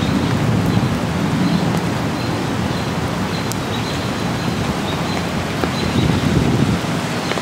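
Distant thunder from an approaching storm, a low rumble that swells and fades over a steady wash of rain-like noise.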